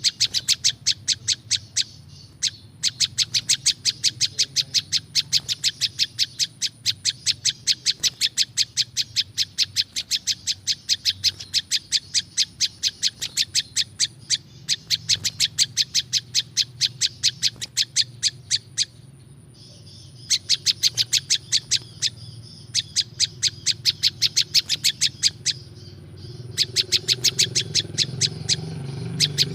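Prenjak lumut calling: long rapid runs of sharp, high chipping notes, about five a second, broken by brief pauses a few times.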